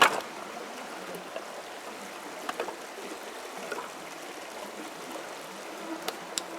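Steady rush of running water, with a sharp knock right at the start and a few light clicks later.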